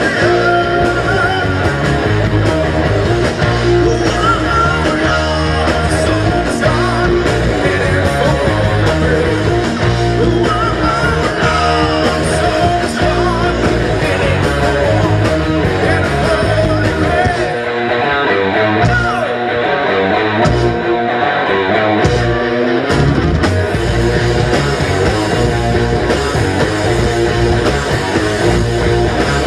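A rock band playing live, with guitar and drums. About two-thirds of the way through, the drums and low end drop out for a few seconds, then come back in.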